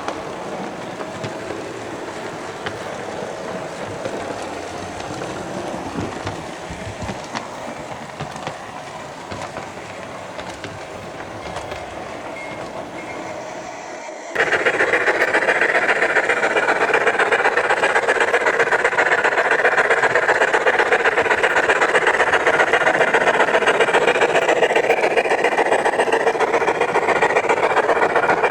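Model train running on the layout: a steady running noise with a few clicks, which suddenly becomes a much louder, dense rattle about halfway through.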